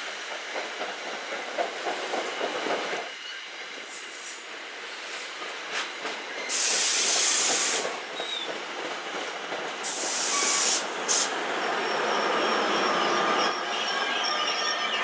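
NJ Transit push-pull commuter train rolling past the platform: wheels clicking over rail joints at first, two loud hissing bursts of air about halfway through and a shorter one soon after, then the noise rising as the ALP-46A electric locomotive pushing at the rear draws level near the end.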